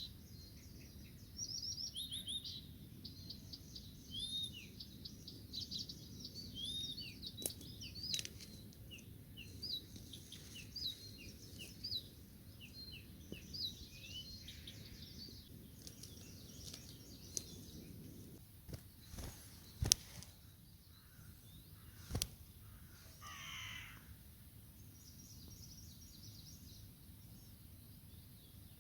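Wild songbirds singing outdoors: short, quick phrases and chirps that come thickly in the first half and thin out later. A few sharp clicks come in the second half, and a harsher call follows soon after.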